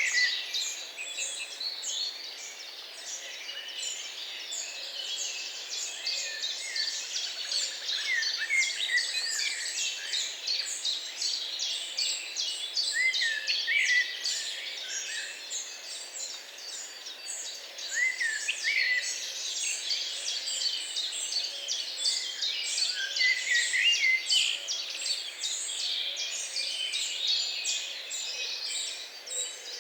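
A chorus of many songbirds chirping and singing at once, with dense, overlapping short calls and warbles.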